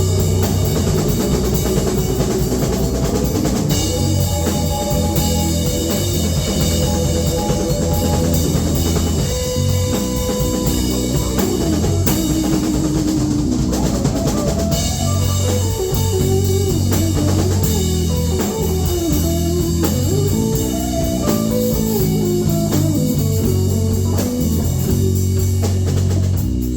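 Live blues-rock band playing an instrumental passage: a guitar line with bent, gliding notes over a steady drum kit beat.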